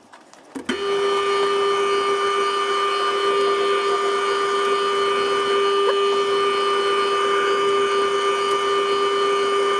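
Metal lathe switched on, its motor and drive coming up to speed within a moment and then running with a steady whine.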